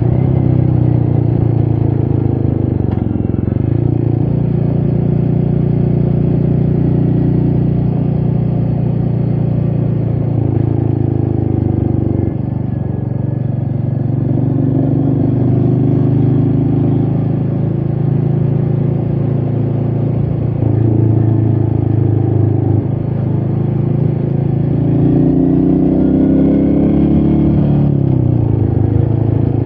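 Royal Enfield Meteor 350's single-cylinder engine running under way. Its pitch rises and falls several times with the throttle, and there is a brief drop in loudness about twelve seconds in.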